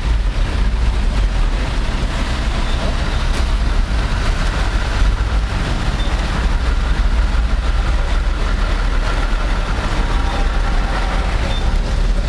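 Road traffic on a snow-covered city street: a steady, loud rumble of passing vehicles.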